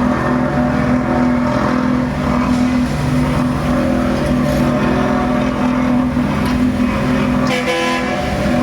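A heavy engine running steadily at constant speed, with a short change in its sound near the end.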